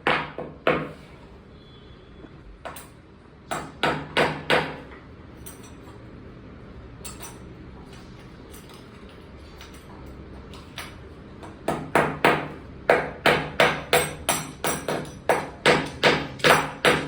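Hammer blows. A few scattered strikes come in the first five seconds. After a pause of several seconds, a steady run of about two strikes a second follows over the last six seconds.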